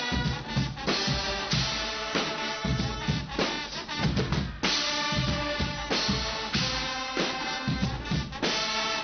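Guggenmusik carnival band playing: brass and a drum section with bass drum and snare keeping a driving beat, with a rapid run of drum strokes about four seconds in before the band comes back in loud.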